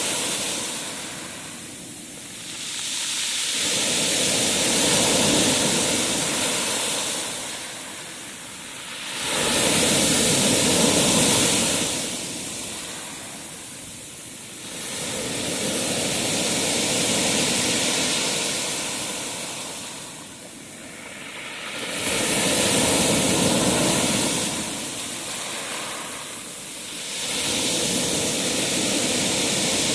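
Sea waves washing in and drawing back, a hissing rush that swells and fades about every six seconds, five surges in all.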